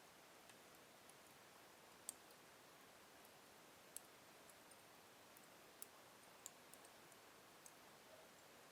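Wood fire in a fireplace crackling faintly: sparse, sharp pops and ticks over a soft hiss, the loudest about two and four seconds in.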